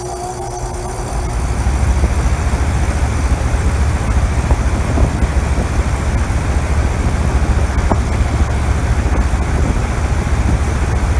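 Goodman GSZ14 2.5-ton heat pump outdoor unit starting up in cooling mode: the compressor and condenser fan come up to speed, growing louder over the first couple of seconds, then run with a steady low hum.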